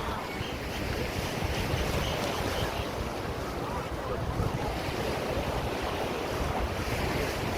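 Wind buffeting the microphone over the steady rush of sea water.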